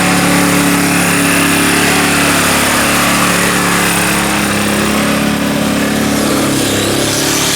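A handheld power tool running steadily, its pitch sagging slightly in the middle as it takes load, as work on the vehicle begins.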